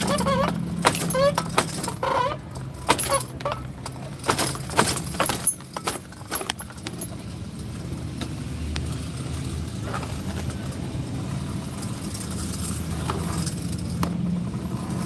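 A car engine idling with a steady low hum, with a run of sharp clicks and jangling rattles over the first six seconds or so.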